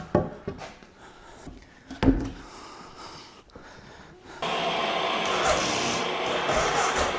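Boards of wood being handled: a few knocks, then one heavy thump about two seconds in. About four and a half seconds in, a steady rushing noise starts and keeps going.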